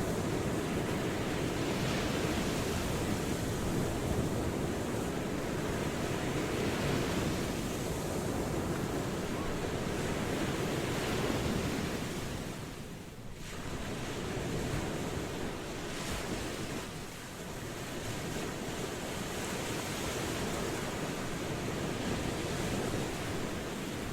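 Ocean waves washing in a steady surge, easing briefly about halfway through before building again.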